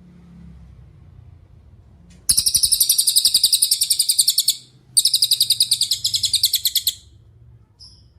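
Cililin song: two long, rapid, high-pitched trills of about two seconds each, split by a brief pause, then a single short chirp near the end.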